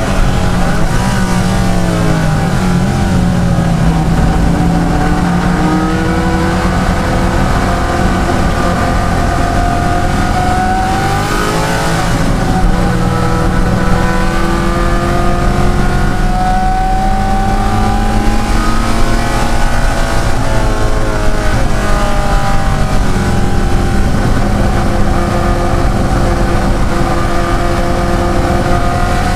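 De Tomaso Pantera's Ford V8 racing under load. The engine note climbs slowly through long pulls and drops sharply twice, about a third and two-thirds of the way through, before climbing again.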